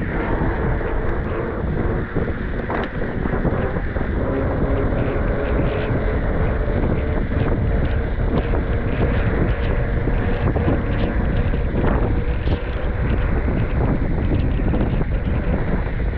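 Loud steady rushing noise with wind buffeting the microphone, a faint steady hum underneath and scattered short knocks.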